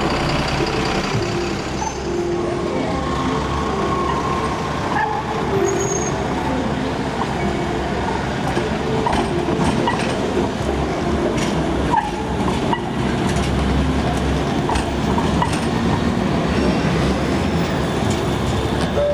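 Buses and Metrolink trams running through a busy city-centre interchange: a steady low engine rumble with scattered clicks and knocks.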